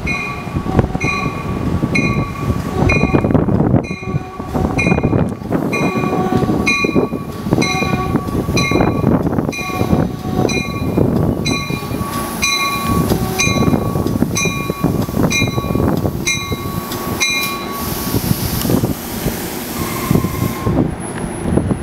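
NJ Transit push-pull commuter train with a Comet cab car leading, running into the station. Its bell rings a little more than once a second over the rumble of the wheels on the rails, and the bell stops about 17 seconds in.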